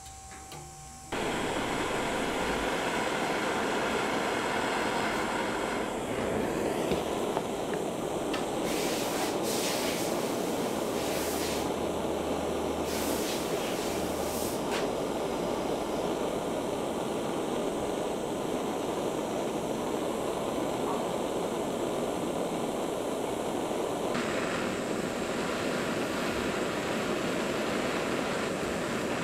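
A power tool running steadily in a workshop, starting abruptly about a second in, with a few brief sharper high-pitched streaks in the middle.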